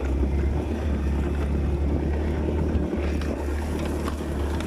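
Small motorcycle engine running steadily at low revs while being ridden slowly, with wind rushing over the phone microphone.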